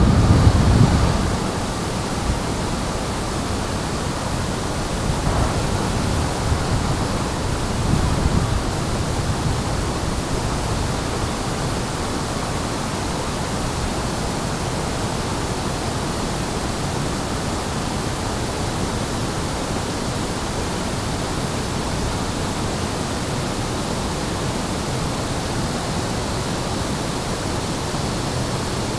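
Steady rushing noise, like water or wind, with louder low rumbles in the first second or so and again about eight seconds in.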